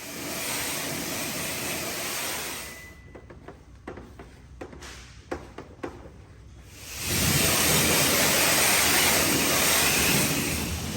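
Water spraying onto a car's paint to wash off a white scuff: a steady hiss for about three seconds, a quieter lull with small clicks and ticks, then a louder spray with a low rumble under it from about seven seconds in.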